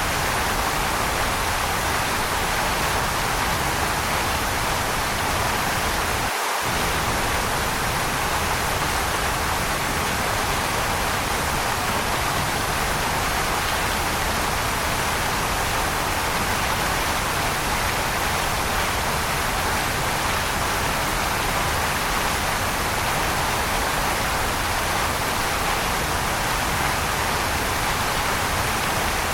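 Waterfall: a steady, dense rush of falling water, with a momentary dip in the low rumble about six and a half seconds in.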